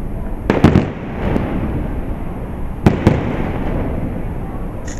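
Aerial firework shells bursting in sharp bangs over a steady low rumble. There is a quick cluster of bangs about half a second in, a smaller one a moment later, and two more close together about three seconds in.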